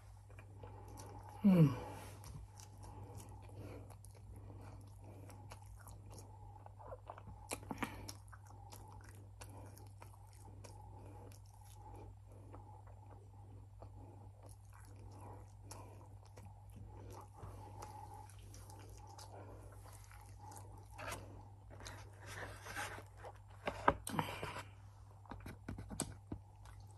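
Close-miked chewing of a fast-food meal of fried chicken fingers and fries, with many small mouth clicks and chews all through. There is a short falling vocal sound about a second and a half in, and a denser, louder run of chewing near the end.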